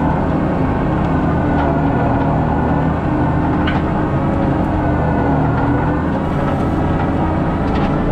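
John Deere 333E skid steer's diesel engine running steadily under working load, its pitch drifting slightly, with a couple of short knocks or clanks from the machine working.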